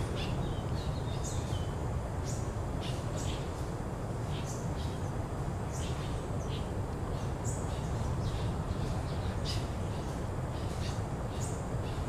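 Birds giving short high chirps and calls, one every second or so, over a steady low background rumble.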